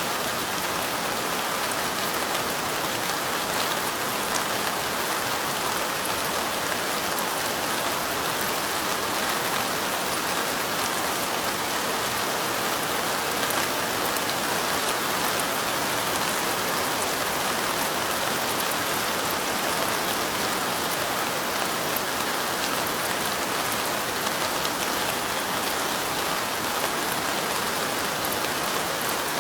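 Steady light rain, drops falling on window glass in an even, unbroken rustling hiss with a scatter of tiny drop ticks.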